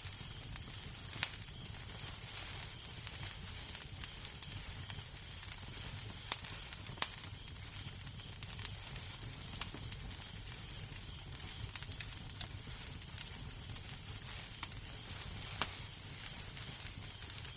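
Wood fire burning in a fireplace: a steady hiss over a low rumble, with sharp crackles and pops at irregular moments.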